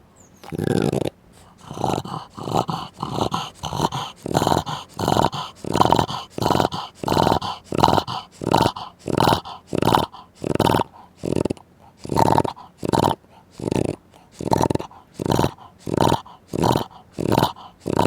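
Fast, rhythmic snoring: a snorting breath about every half second to two-thirds of a second, keeping up a very even rhythm.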